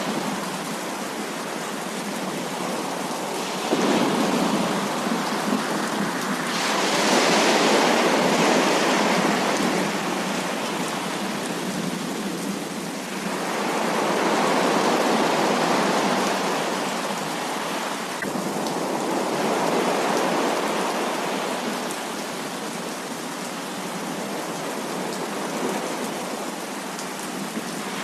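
Heavy rain falling steadily, swelling louder and easing off several times.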